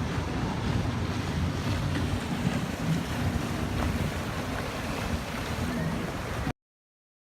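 Wind buffeting a phone microphone aboard a moving river cruise boat, a steady low rumble that cuts off suddenly near the end.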